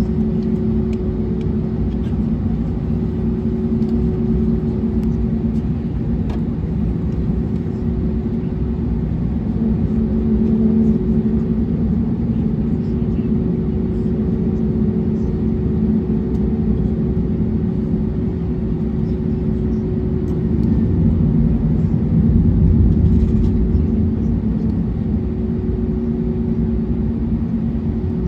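Steady low rumble inside the cabin of an Airbus A321neo, with two steady hums from the aircraft's engines and air systems, swelling slightly twice.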